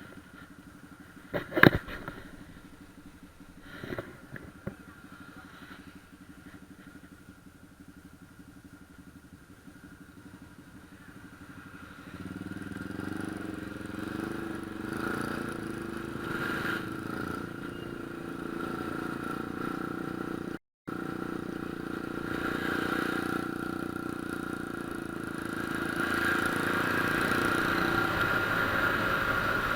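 Honda Click scooter engine running, with a few sharp knocks about two seconds in and again around four seconds. About twelve seconds in the engine sound grows much louder and stays steady, then rises again near the end.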